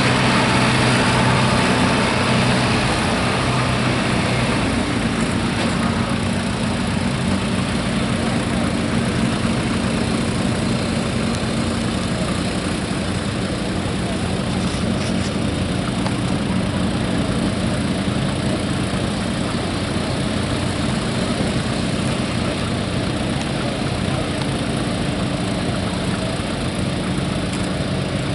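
Tractor engine running steadily at a low, even speed, with no revving.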